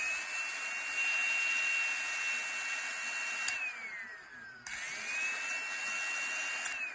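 ZenCT CT210 suction pet clipper's small motor running with a steady high whine. About three and a half seconds in it clicks off and its pitch falls as it winds down; just before five seconds it is switched back on and winds up to the same whine, then clicks off again and winds down near the end.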